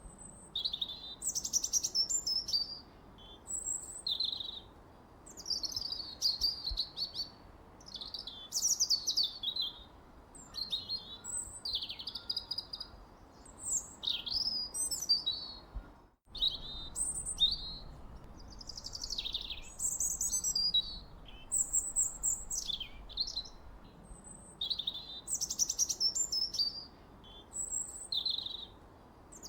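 Songbirds singing: a dense run of varied, high chirps and warbled phrases, one after another with short gaps, over a faint steady background hiss. The sound cuts out for an instant about halfway through.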